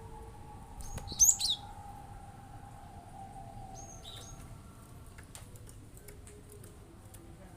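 Cinereous tit (gelatik batu) calling: a loud, quick burst of sharp high notes about a second in, then a couple of shorter chirps around four seconds, over faint clicks and a steady faint hum.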